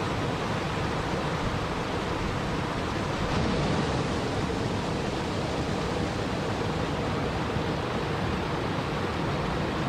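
Steady, even rushing of water, with no separate drops, splashes or thunder standing out.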